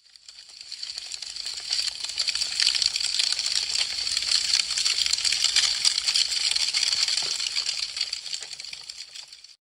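Burning wood crackling with dense, rapid small pops and snaps. It fades in over the first couple of seconds and fades out near the end.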